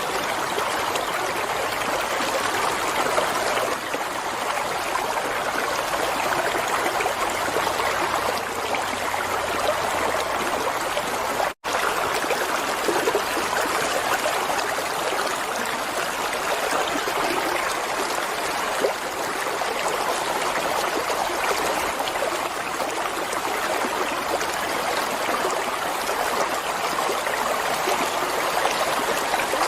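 Water flowing and trickling steadily, an even rushing babble like a stream. It cuts out for an instant a little before halfway through.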